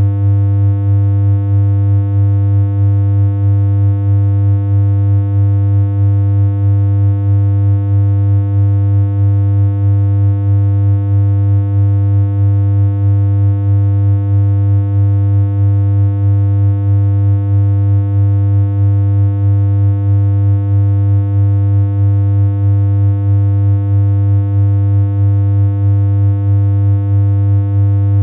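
Synthesized electronic hum: one steady, low, buzzy tone held unchanged.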